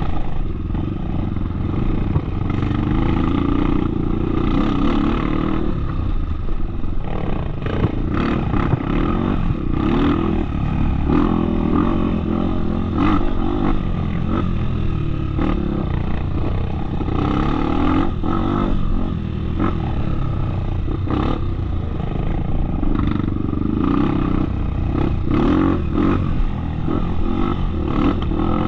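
Off-road motorcycle engine running steadily as the bike is ridden along a trail, with frequent short knocks and rattles.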